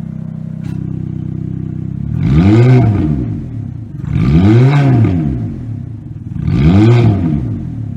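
Ferrari F430's V8 idling, then revved three times, each rev climbing and dropping back over about a second and a half, through the exhaust with its valves held open by a remote control module.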